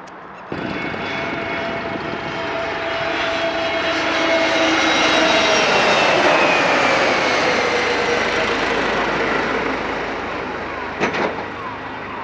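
Jet airliner passing by under engine power, a loud rushing noise with a whine. It swells to a peak midway, then fades as the engine tones drop in pitch.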